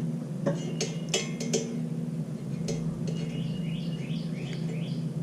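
A few light metallic clinks and taps from handling small tools and parts in the first three seconds, then a bird singing a quick run of short rising notes in the background, over a steady low hum.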